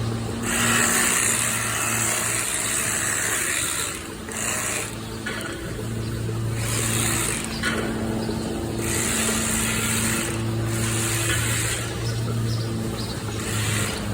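Electric clippers cutting cow tail hair: a steady motor hum that comes and goes in spells of a second or more, with bursts of high hiss as the blades go through the hair.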